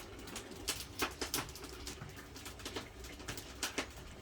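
Firewood burning under a cast-iron cauldron, crackling with irregular sharp pops, a few louder snaps about a second in and near the end.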